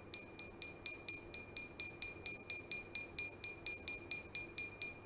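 A drinking glass about half full of water tapped on its side with a stick, about four even taps a second, each ringing with the same clear high note.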